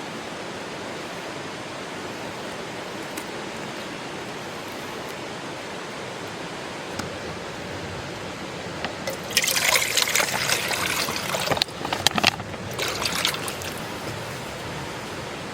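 Liquid being poured and trickling for about two seconds, then a few shorter splashes, over a steady background hiss.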